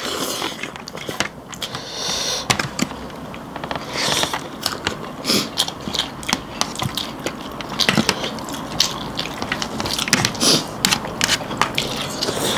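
Close-up eating sounds: chewing and crunching, with many sharp, irregular mouth clicks.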